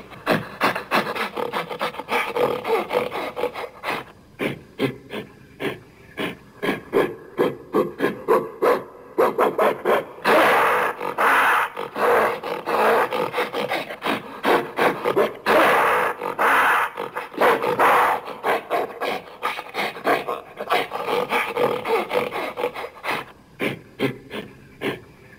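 Animal-like creature vocalizations built from gorilla and black bear sounds: a long run of short, rapid, rasping calls, with longer and louder calls about ten and fifteen seconds in.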